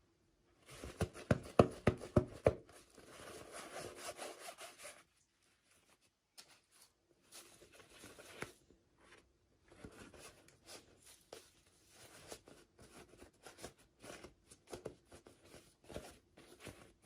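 Hands unwrapping and handling toy packaging: irregular rustling, rubbing and scraping with small clicks, loudest in the first few seconds and then softer and intermittent.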